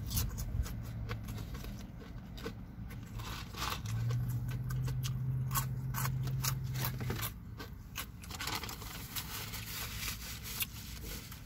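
Close-up chewing of battered fried fish with tartar sauce: a run of wet mouth clicks and crunches, with a low steady hum for about three seconds in the middle.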